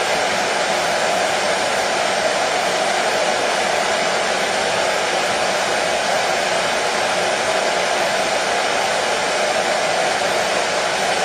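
Hair dryer running steadily: a constant rushing hiss of its fan and airflow, strongest in the middle range, with no change in speed.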